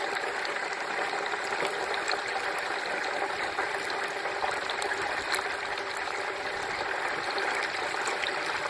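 Hot frying oil bubbling and sizzling steadily around a whole turkey as it is lowered into the fryer, with scattered small crackles and one sharper pop about five seconds in.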